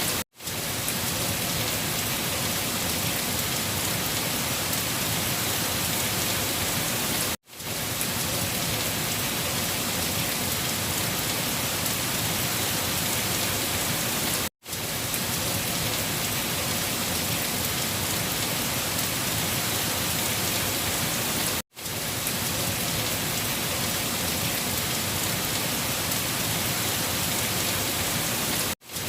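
Steady rain, an even hiss of many drops. It cuts out to silence for a fraction of a second about every seven seconds.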